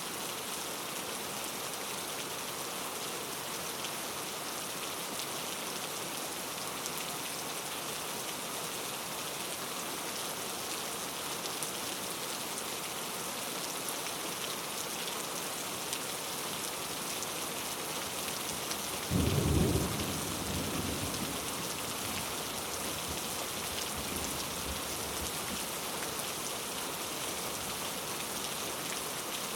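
Steady rainfall hissing, with a single rumble of thunder about two-thirds of the way through that swells for a second and fades away.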